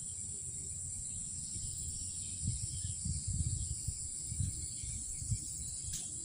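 Steady, high-pitched chorus of night insects, crickets among them, with irregular low rumbles on the microphone in the middle and a sharp click near the end.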